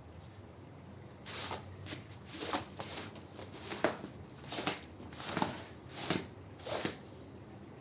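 Repeated scrubbing strokes on a wet carpet, about eight strokes a little faster than one a second, starting about a second in.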